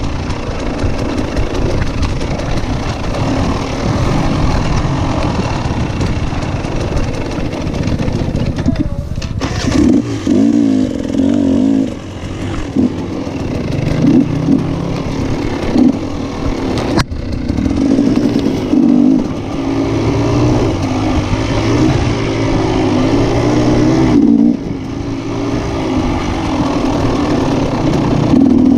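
Motocross motorcycle engines running and revving, the pitch climbing and dropping again and again. A single sharp click comes partway through.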